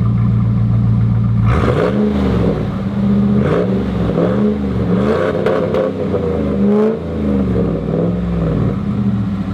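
Dodge Ram SRT-10's 8.3-litre Viper V10 breathing through a new aftermarket exhaust with quad tips: it idles, then about a second and a half in is revved in a string of about six blips, and settles back toward idle near the end.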